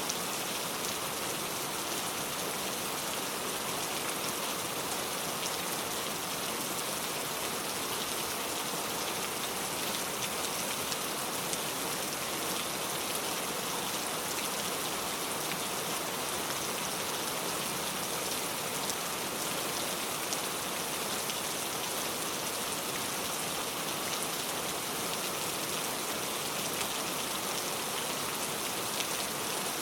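Steady rain falling, an even hiss of drops that holds the same strength throughout.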